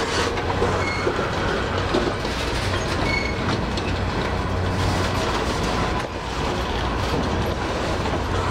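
Loaded freight flatcars rolling steadily past at low speed, their wheels clacking over the rail joints, with a few brief faint high wheel squeals.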